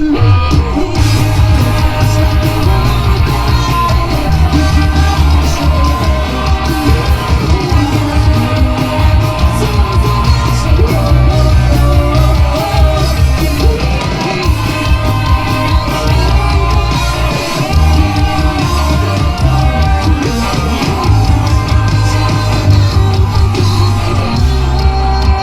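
Live rock band playing a fast, loud song: lead and backing vocals singing over electric guitars, bass and a heavy drum beat.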